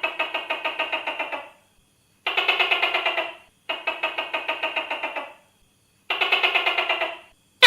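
Tokay gecko calling: four rapid, evenly pulsed trills, each about a second and a half long with short gaps between them, then a sharp call starting at the very end.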